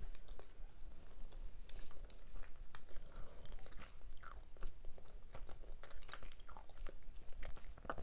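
Close-miked mouth eating sounds: a person chewing food with many irregular short wet clicks and smacks.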